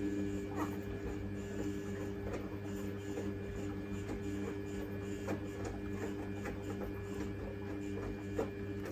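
Samsung WF1700WRW washing machine running mid-cycle: a steady motor whine that cuts off just after the end, with light clicks and knocks from inside the machine.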